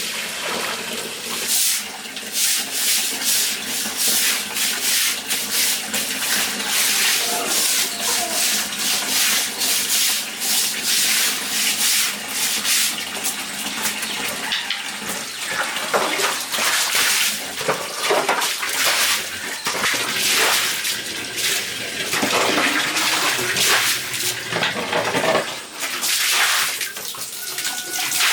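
Water splashing and sloshing in quick, irregular strokes.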